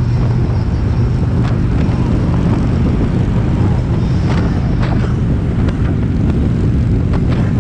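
Harley-Davidson Street Glide's V-twin engine running steadily at highway cruising speed, with wind noise on the microphone.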